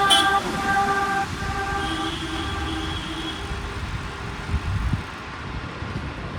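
Road traffic noise, with a vehicle horn sounding for about a second and a half near the middle.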